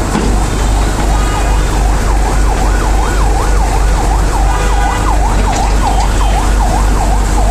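A siren wailing up and down rapidly, about twice a second, starting about a second in, over the steady low rumble of a heavy diesel engine.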